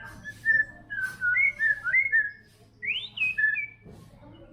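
White-rumped shama singing: a quick string of clear, flute-like whistled notes that slide up and down, with one higher swooping note near the end.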